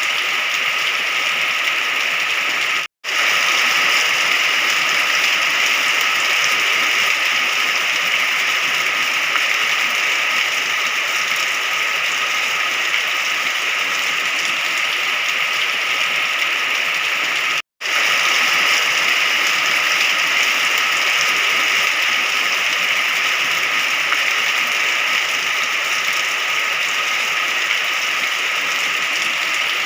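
Steady heavy rainfall, a dense even hiss of drops. It cuts out for an instant twice, about three seconds in and again near eighteen seconds.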